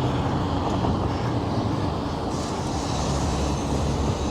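Steady road traffic from cars passing close by: a continuous rumble of engines and tyres, with the tyre hiss of a passing vehicle swelling about two seconds in and fading by the end.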